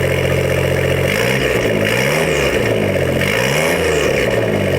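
1999 Suzuki Carry kei truck's turbocharged engine idling through a custom exhaust with a small muffler newly fitted in place of a straight pipe, blipped twice, the pitch rising and falling back to idle each time.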